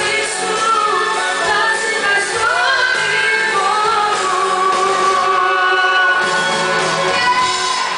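Live pop music with a woman singing a sustained, gliding melody, voices joining in, over the band in a large hall.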